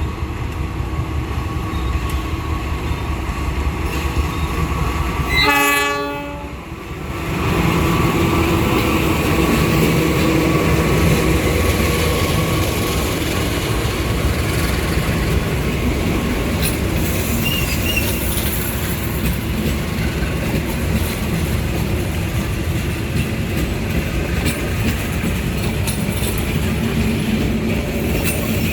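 A diesel-hauled passenger train passing, its locomotive giving one short horn blast about six seconds in. The steady rumble and wheel clatter of the train going by follows.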